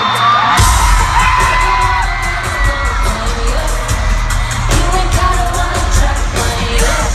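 Live pop music at a concert: a heavy bass line and a drum beat kick in about half a second in, with singing over them.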